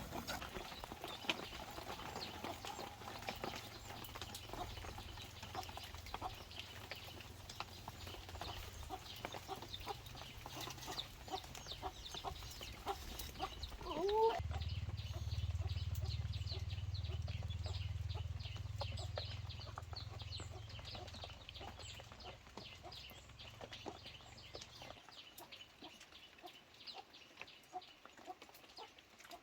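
Farm chickens clucking, with scattered faint ticks and one short rising call about halfway through. A steady low hum under them grows louder about halfway and stops a few seconds before the end.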